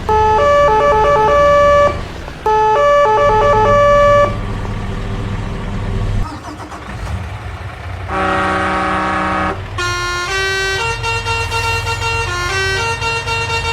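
Cartoon vehicle sound effects: a repeating siren-like pattern of stepped tones over a low engine rumble, the rumble carrying on alone, then one horn honk lasting about a second and a half, about eight seconds in, followed by a simple electronic tune.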